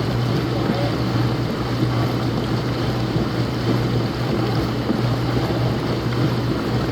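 Laundromat washing machines running: a steady low hum under a constant rushing, churning noise.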